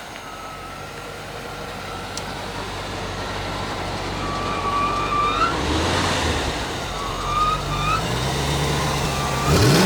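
1996 Corvette LT1 small-block V8, out of the car and running on its own, settling back to idle after a rev. It idles steadily for several seconds, then is blipped again near the end, its pitch rising quickly.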